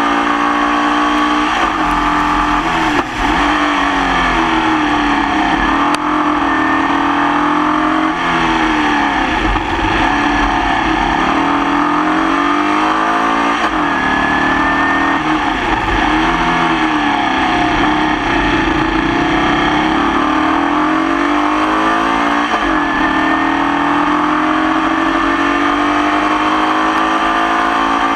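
Formula Vee race car's air-cooled VW flat-four engine at racing speed. The revs climb and fall over and over through gear changes and corners. The engine is running with a persistent misfire.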